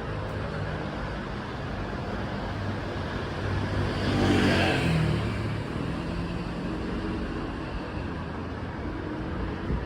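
Steady road traffic noise, with one vehicle passing and growing louder, then fading, about four to five seconds in.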